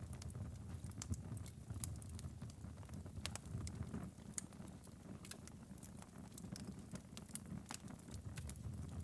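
Fire in a fireplace crackling: irregular sharp pops and snaps, several a second, over a low steady rumble of the flames.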